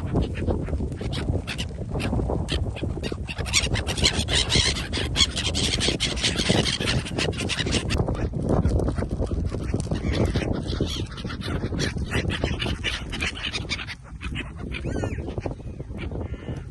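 Geese honking and ducks quacking, over a steady low rumble and many short clicks.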